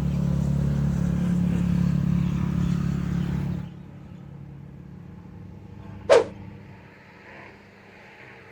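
A motor engine running steadily with a low hum, cutting off suddenly about three and a half seconds in. A single sharp click follows a couple of seconds later.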